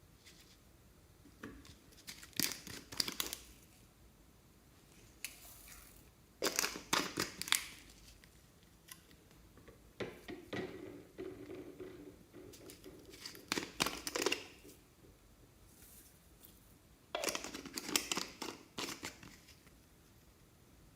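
Plastic piping bags being crinkled and snipped with scissors, in four short bouts of crackling and snipping.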